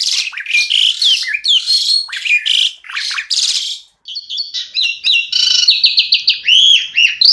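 Asian pied starling (jalak suren) singing a loud, varied song: clear whistled glides mixed with harsh rasping phrases, a brief break about four seconds in, then fast runs of repeated chattering notes.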